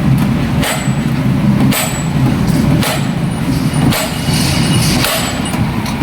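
Engine running steadily with a low rumble, with sharp metal knocks about once a second, like hammer blows on steel.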